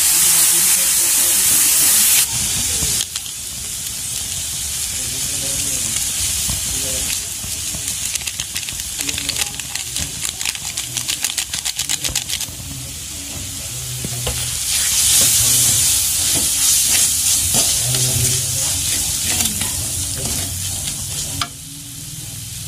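Vegetables sizzling in a hot kadai, with a wooden spatula stirring and scraping against the pan. The sizzle is loud for the first two seconds, gives way to a run of quick scrapes, then swells again before dropping near the end.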